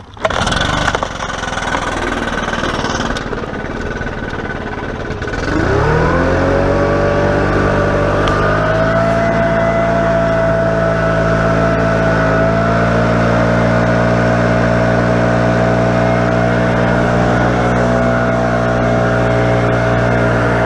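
Stihl 090 two-stroke chainsaw engine running unevenly, then revving up about five seconds in and holding a steady high speed.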